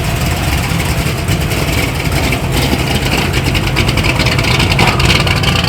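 A car engine running steadily and loudly, with a fast even pulsing.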